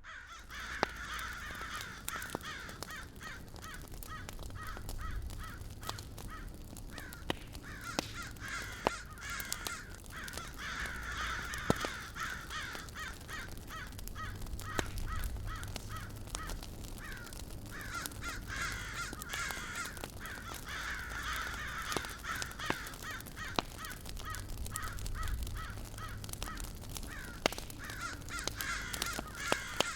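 Campfire crackling, with scattered sharp pops over a low steady rumble, while birds call in repeated rapid runs of harsh notes through most of the stretch.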